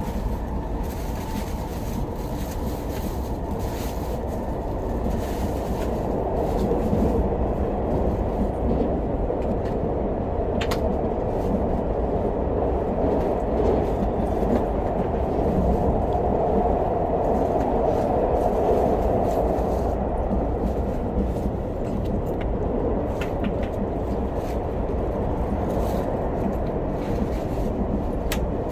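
Steady running noise inside the passenger cabin of an SRT high-speed train (SR 120000 series electric multiple unit) travelling at speed: a deep rumble that swells a little through the middle, with a couple of faint clicks.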